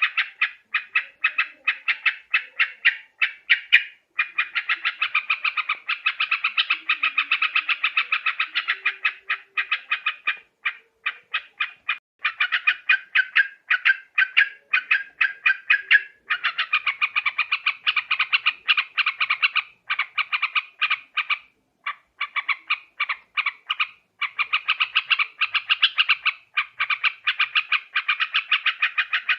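Yellow-vented bulbuls (trucuk) chattering: fast runs of short, bubbly notes that come in long bursts with brief pauses between them.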